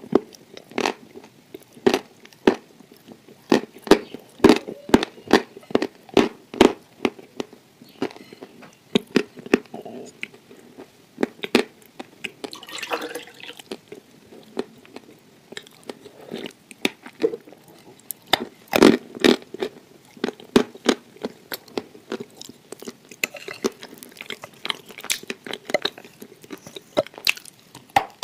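Close-miked chewing and wet mouth sounds of a creamy dessert being eaten by the spoonful, with many sharp, irregular smacks and clicks and a brief noisy rustle about halfway through.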